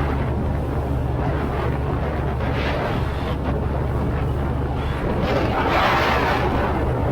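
Checkmate speed boat under way: the engine hums steadily under a wide rush of wind and water. The rushing noise swells about five to six seconds in.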